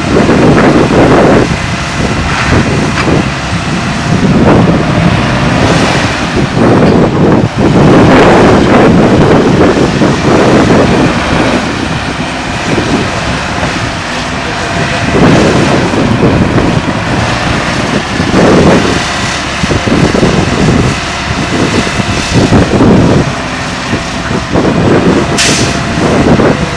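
Tatra 148 truck's air-cooled V8 diesel engine running loud under load, its revs rising and falling in repeated surges, with wind buffeting the microphone.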